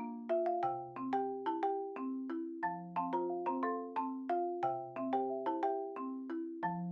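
Background music: a light, bouncy tune of struck mallet-percussion notes in the manner of a marimba, with a simple bass line under it.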